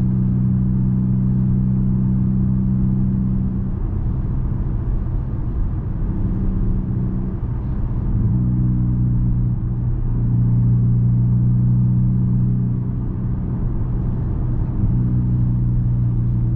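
Straight-piped car exhaust droning steadily while driving, its low note changing a few times through the stretch.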